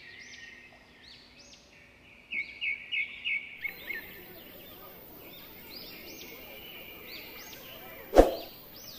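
Birds chirping throughout with short repeated arched calls, with a louder run of quick notes, about four a second, between two and three and a half seconds in. A single sharp knock near the end is the loudest sound.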